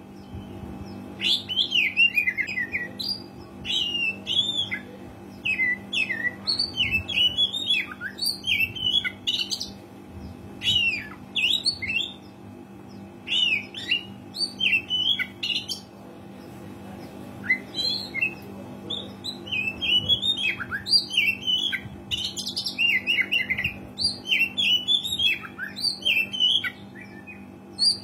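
Oriental magpie-robin (kacer) in full, vigorous song: quick varied chirps, sweeps and whistles in phrases of a second or two with short pauses between, over a steady low hum.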